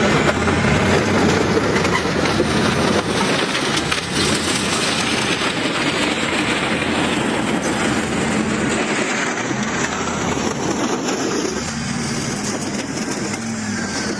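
Heavy diesel machinery working under load: engines running and rumbling, with a rattling, clattering mechanical noise.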